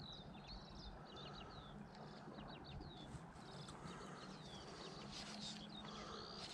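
Faint birdsong: a songbird calling over and over in quick high chirps and short falling whistles, over a low, steady outdoor background.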